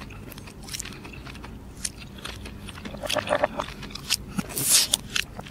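Close-miked chewing of baked mussels, with small clicks and scrapes as a mussel shell is picked up from the platter; a louder, hissy burst comes about four and a half seconds in.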